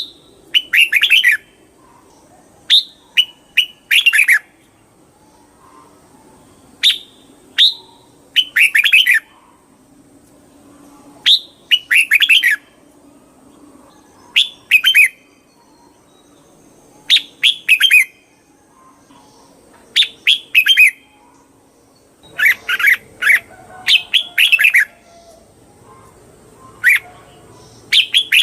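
Red-whiskered bulbul singing: short phrases of quick, bright whistled notes, repeated every second or two and coming faster near the end.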